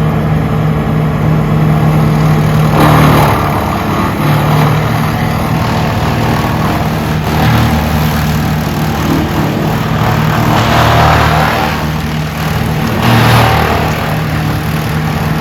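Large 440-horsepower wood chipper running, its engine droning steadily, with surges of louder rushing noise about three seconds in and again around eleven and thirteen seconds in as timber goes through it.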